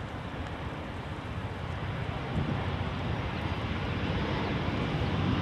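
Qatar Airways Airbus A350-900 landing, its Rolls-Royce Trent XWB jet engines giving a steady deep rumble and hiss that grows slowly louder.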